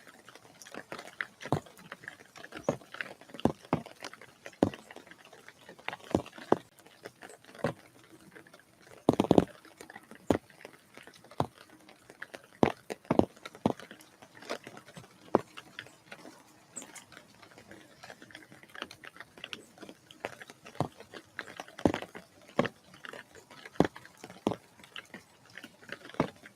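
Irregular sharp taps and knocks close to the microphone at a bird feeder, about one or two a second and uneven in strength, over a faint steady background.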